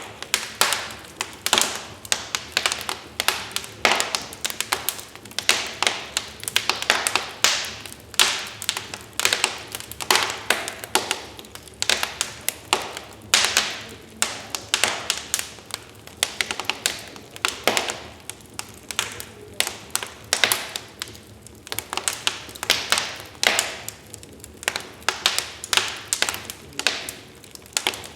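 Wood fire crackling in a fireplace: a steady stream of irregular sharp pops and snaps, several a second, over a faint hiss.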